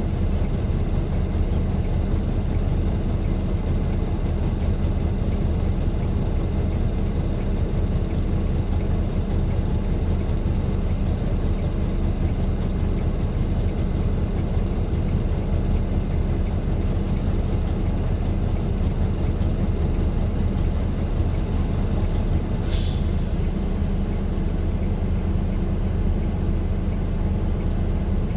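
A vehicle's engine running steadily with a low drone, broken by two short hisses of released air, one about eleven seconds in and a stronger one near twenty-three seconds.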